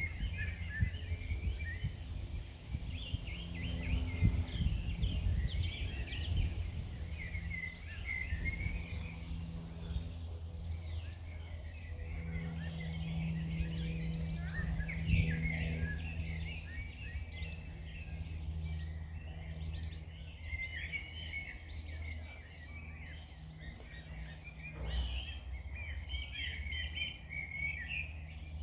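Songbirds singing and chirping in many short, quick trills, with busier stretches, over a constant low background rumble.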